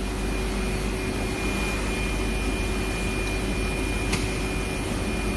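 Steady whir of a solid-surface heating oven's circulation fans running, with a steady hum and a single faint click about four seconds in.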